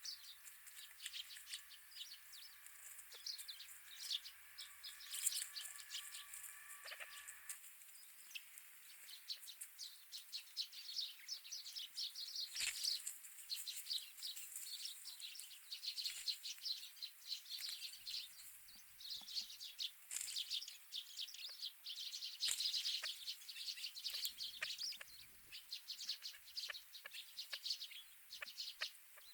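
Wild birds chirping, many short high calls overlapping in a continuous chatter.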